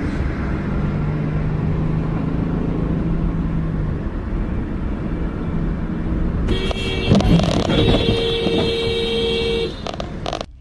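A car driving with a steady rumble of road and engine noise. Then a car horn sounds in one long blast of about three seconds, with a couple of sharp knocks near its start.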